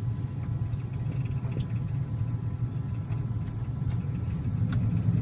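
Steady low drone inside a light aircraft's cabin during a power-off glide, with the engine throttled back to idle and air rushing past the airframe.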